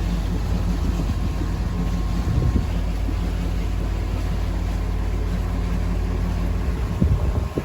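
A boat's engine running steadily under way, a constant low drone. A couple of brief bumps break through, one about two and a half seconds in and one near the end.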